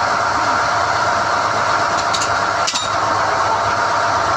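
SDH-1600 drilling rig running steadily while NQ drill rods are hoisted out of the hole, with two short clicks a little past two seconds in.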